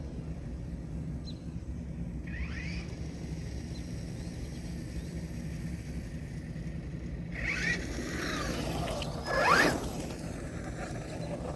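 Traxxas Rustler RC car's brushed electric motor and gear drivetrain whining and rattling as it drives, with a brief whine about two seconds in and a louder stretch of rising and falling whine and mechanical rattling in the second half, peaking near the end. It is an odd sound from a motor that has overheated and is losing power.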